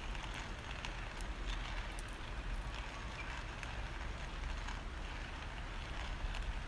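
Campfire of burning wood crackling, with scattered sharp pops over a steady low rumble.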